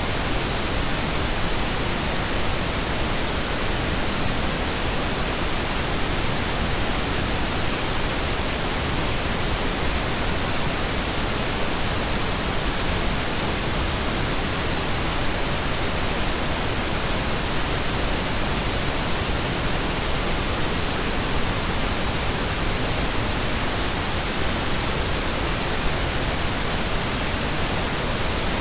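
Steady synthetic pink noise: an even, unchanging hiss spread across the whole range, deeper and softer than white noise.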